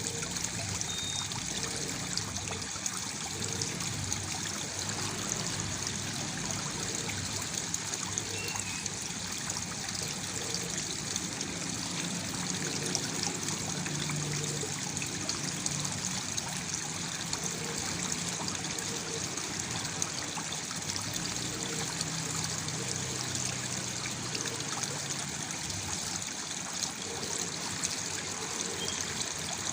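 Small waterfall: water falling and splashing steadily into a pool, with a bright, even trickling and splashing.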